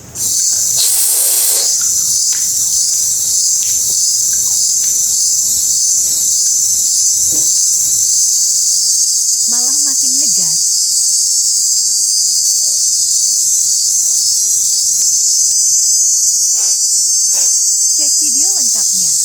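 A loud, steady high-pitched hiss like an insect chorus, with a short wavering, voice-like call about ten seconds in and another near the end.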